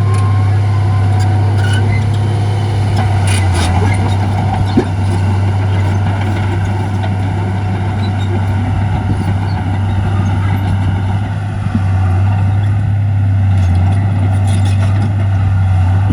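Heavy diesel earthmoving machinery running steadily with a deep, even engine drone, with one brief sharp knock about five seconds in.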